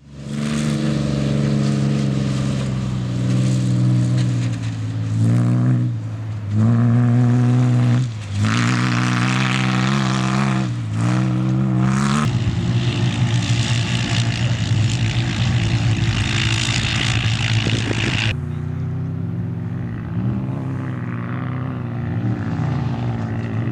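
Off-road vehicle engines running and revving, the pitch rising and falling with the throttle. The engine sound changes abruptly about halfway through and again near the end, as one vehicle gives way to another.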